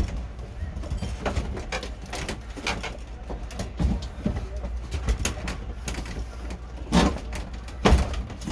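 Handling knocks and scrapes as a window air conditioner is slid into a wooden window mount, with two louder thumps near the end.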